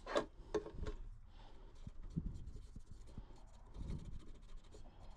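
Faint, irregular scratching and scraping on a small circuit board, with a couple of sharper clicks about a second in: corrosion being worked off the water-damaged RF hub module's board.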